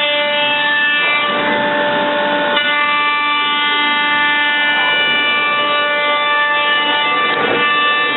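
CNC router spindle running with a steady high whine, with rougher cutting noise from about one to two and a half seconds in and again near the end.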